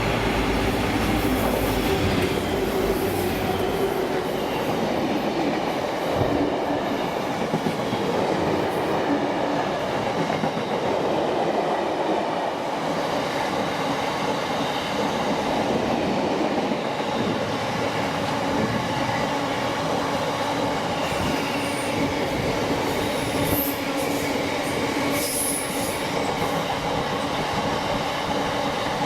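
A train running along the track: a steady rumble and hum of wheels and motors on the rails, with some brief high-pitched sounds in the second half.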